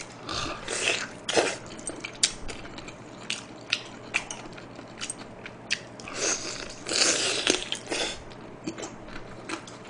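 Close-miked chewing and gnawing of beef short-rib meat off the bone, with wet mouth clicks and smacks throughout and a denser spell of smacking about six to eight seconds in.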